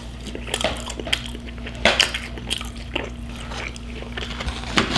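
Close-miked chewing of a creamy fried mac and cheese ball: wet, squishy mouth sounds with many short, sharp smacking clicks, the loudest about two seconds in and near the end.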